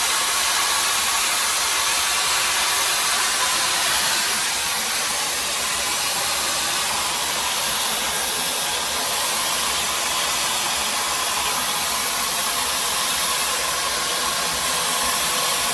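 Hot air brush (hair dryer brush) blowing steadily: a constant rush of air with a faint steady whine from its motor.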